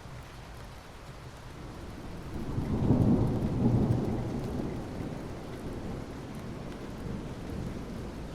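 Steady rain falling, with a low rumble that swells up about two and a half seconds in and dies away over the next couple of seconds.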